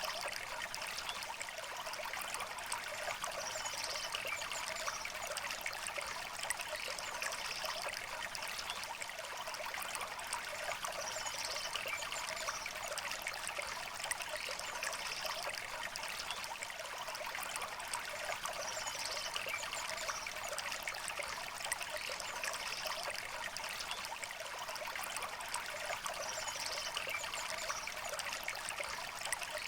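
River water flowing steadily, an even rushing babble, with brief high sounds recurring every three to four seconds.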